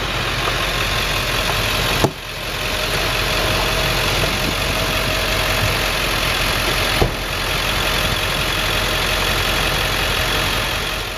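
A car engine running steadily, with two brief clicks, one about two seconds in and one about seven seconds in.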